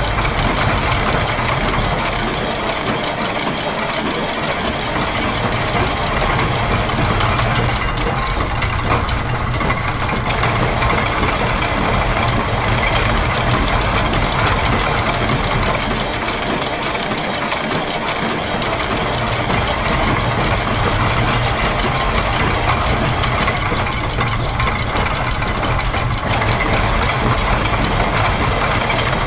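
A dense, continuous mix of looped factory machine sounds layered together: gears and ratchets clicking rapidly over a low running hum. The high hissing layer drops out twice, for about two seconds each time.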